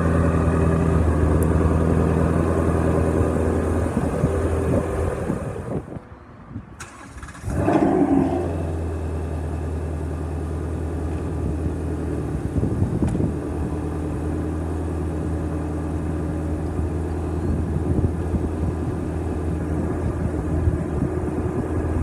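Ford Mustang Shelby GT350R's 5.2-litre flat-plane-crank V8 idling. About six seconds in it goes briefly quiet, then starts again with a short rising rev flare and settles back to a steady idle.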